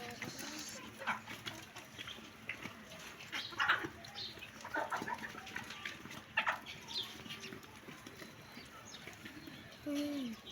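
Chickens clucking in short, scattered calls, with a brief lower call near the end.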